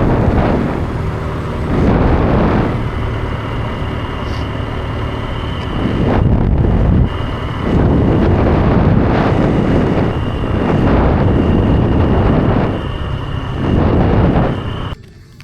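A motorbike ridden at speed, with wind buffeting the microphone in repeated gusts over the engine and a thin steady whine from about three seconds in. The sound cuts off suddenly near the end.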